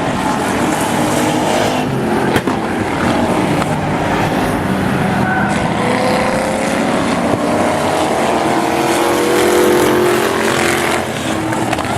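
Engines of several demo race cars running hard around the track, with revs rising and falling as cars pass and climbing through the middle. There is one sharp knock about two and a half seconds in.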